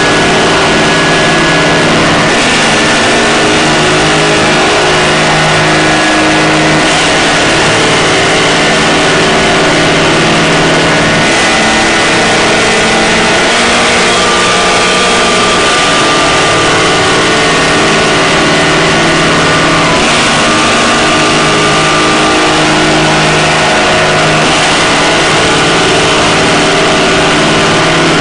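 Harsh noise drone: a loud, unbroken wall of distorted hiss with several held droning tones underneath that shift in pitch every few seconds.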